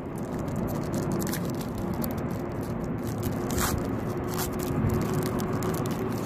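Foil trading-card pack being torn open and its wrapper scraped and crinkled, with a few sharp crackles, over a steady low hum and rumble of background noise.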